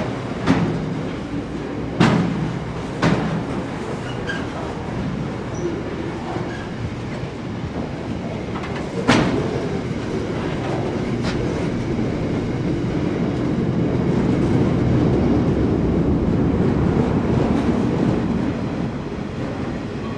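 Freight train of steel-coil wagons rolling on the track: a steady low rumble broken by several sharp metallic clanks from wheels and couplings. The rumble grows louder over the second half, then eases off near the end.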